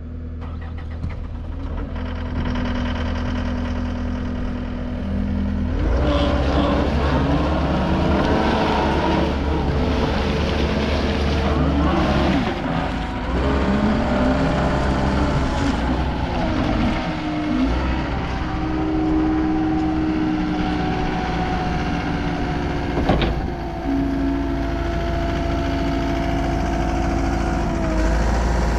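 John Deere 331G skid steer's diesel engine running steadily at first, then speeding up about six seconds in as the machine is worked, with a whine that rises and falls in pitch again and again. One sharp knock comes about three-quarters of the way through.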